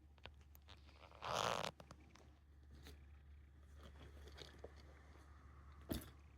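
A short rasping noise about a second in, then scattered small clicks and one sharper tap near the end.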